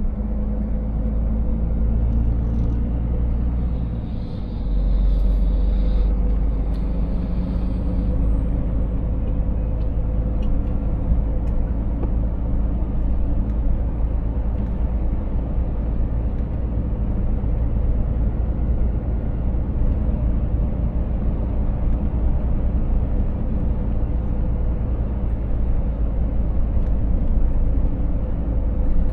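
Scania 500S truck's engine and road noise as it drives: a steady low rumble. About four seconds in it dips briefly and then comes back a little louder.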